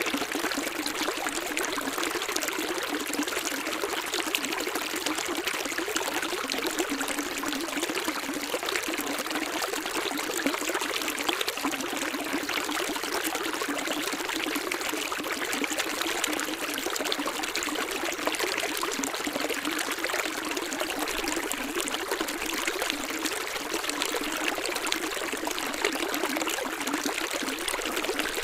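Water running steadily, a stream or trickling flow, as an even rushing noise with no low rumble.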